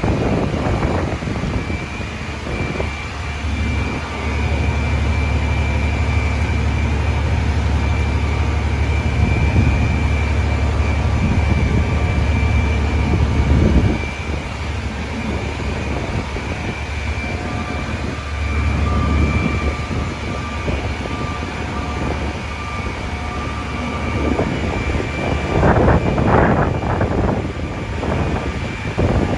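Steady low rumble of heavy engines and city traffic with strong wind on the microphone, loudest for about ten seconds from about four seconds in. A thin, steady high tone runs underneath.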